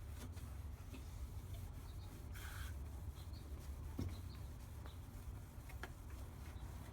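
Faint rubbing and handling sounds over a low steady rumble, with a short hiss about two and a half seconds in and a single knock about four seconds in.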